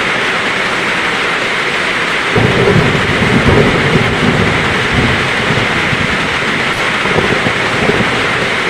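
Heavy rain falling steadily in a thunderstorm; a couple of seconds in, a rumble of thunder starts, loudest for the first second or two and then fading away over several seconds.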